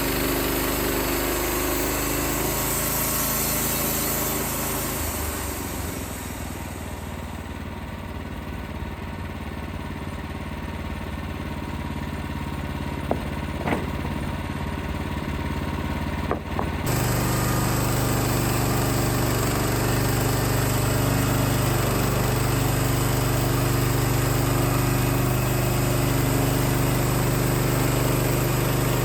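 Engine running steadily. About five seconds in its note drops and eases off. A couple of sharp clicks come shortly past the middle, then the engine jumps back up, louder and higher, and holds there.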